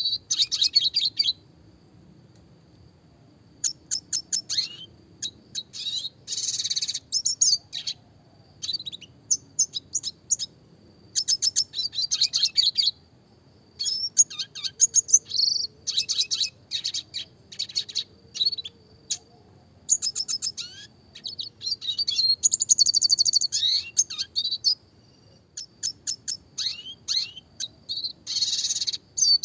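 Red siskin singing: repeated high-pitched phrases of fast twittering trills and chirps, each a second or two long, separated by short pauses.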